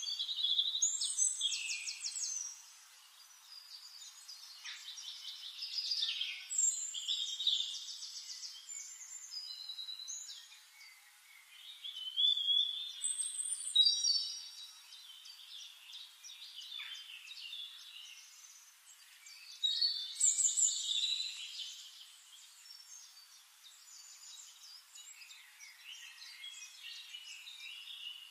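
Songbirds singing and chirping in bouts of quick, varied high-pitched trills and whistles, with quieter stretches between.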